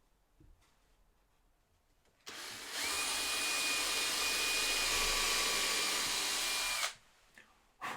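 Power drill running steadily for about four and a half seconds, drilling a pilot hole in MDF: a steady motor whine over a hiss, starting about two seconds in and stopping abruptly.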